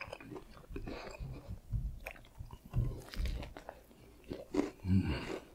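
A person chewing a mouthful of fried chicken sandwich with irregular wet mouth sounds and soft crunches, and a brief low hum near the end.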